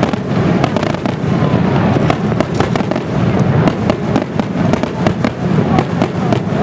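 Aerial fireworks going off in a dense barrage: a continuous low rumble of bursts with many sharp crackles and bangs on top.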